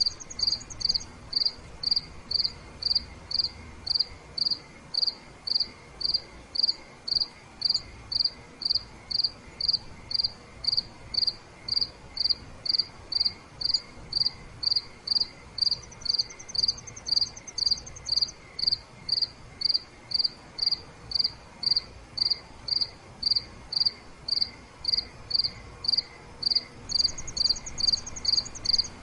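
Crickets chirping at night in a steady, even rhythm of about two chirps a second, with a second, higher and faster insect trill joining three times for two or three seconds each.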